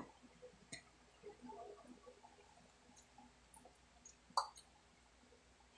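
Faint close chewing of fried tofu with shrimp paste: soft wet mouth sounds and small clicks, with one sharper click about four seconds in.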